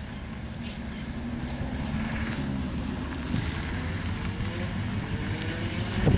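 Diesel locomotive engine running and revving up, its pitch rising over the second half, with a short loud bump right at the end.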